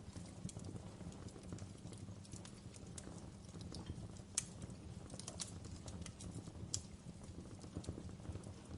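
Wood fire burning in a fireplace: irregular crackles and pops over a steady low rumble of the flames, with two sharper pops about four and a half and near seven seconds in.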